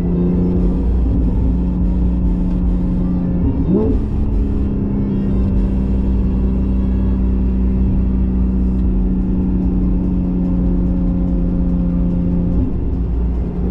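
Porsche 718 GTS 4.0's naturally aspirated 4.0-litre flat-six running through a Kline stainless exhaust with the valves open, holding a steady engine note at cruise. About four seconds in the pitch briefly drops and climbs back.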